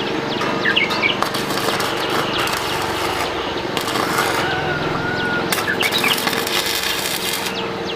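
Birds chirping over a steady hum, with three stretches of loud crackling hiss, the longest from about five and a half seconds to near the end.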